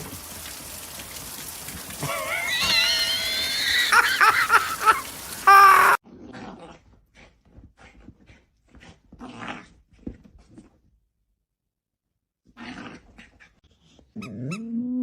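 A dog whining in high, gliding cries for a few seconds. After a sudden cut only faint scattered sounds follow, and near the end a steady low droning tone starts.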